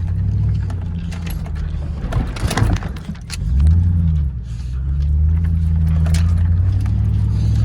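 Pickup truck engine running under load in sand, its pitch rising and easing off about three and a half seconds in and again from about five seconds. A burst of rattling and jangling comes about two seconds in.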